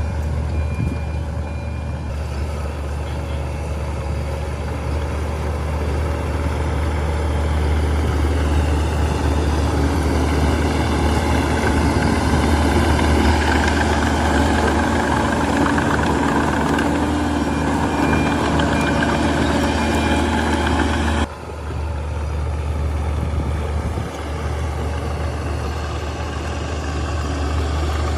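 Heavy diesel engine running, growing louder through the middle and then dropping suddenly about 21 seconds in.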